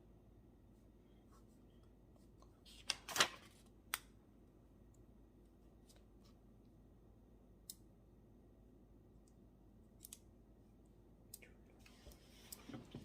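Quiet room with small desk-handling sounds from studying, likely a pen or paper. A short burst of rustling and sharp clicks comes about three seconds in, then a few single clicks spaced several seconds apart, and more scattered rustling and clicks near the end.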